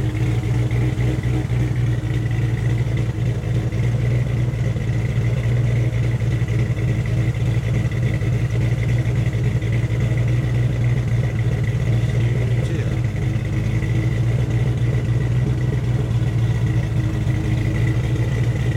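2003 Mustang SVT Cobra's supercharged 4.6-litre V8 with Comp stage 3 cams idling steadily through long-tube headers, an X-pipe and a Mac 3-inch catback, with a faint steady high whine over the exhaust rumble. It has just had the cams installed and still needs fine tuning.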